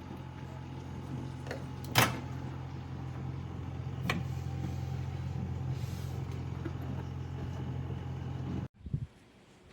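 H.Koenig VIO9 microwave oven running: a steady low hum, with a sharp click about two seconds in and a fainter click about four seconds in. The hum cuts off suddenly near the end, followed by a brief knock.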